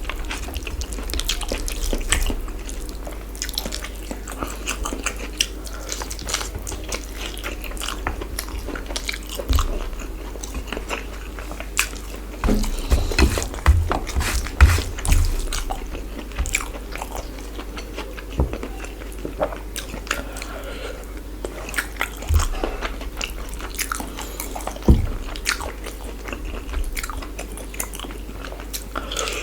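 Close-miked mouth sounds of eating spicy chicken curry with rice: irregular biting, chewing and crunching, with a cluster of louder crunches in the middle, over a steady low hum.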